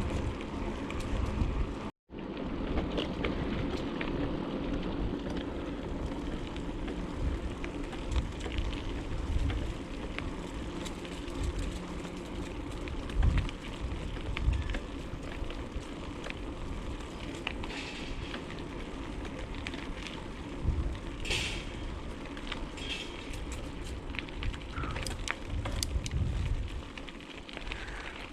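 Bicycle riding along a trail as heard from a GoPro on the bike: steady rolling tyre and wind noise with scattered rattles and clicks. The sound cuts out briefly about two seconds in.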